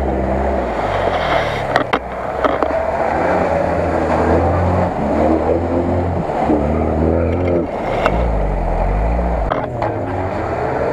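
Off-road 4x4 engines revving hard while churning through deep mud and water, the engine pitch holding and then rising and falling, with a few sharp knocks.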